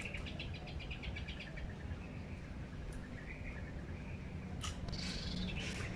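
Birds chirping: a quick run of short chirps about ten a second at the start, then a few thinner calls, over a steady low rumble of outdoor background noise.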